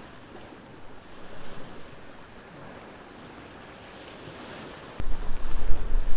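Ocean waves washing onto the shore as a steady hiss of surf, swelling briefly about a second in. About five seconds in, a loud low rumble of wind buffeting the microphone sets in suddenly.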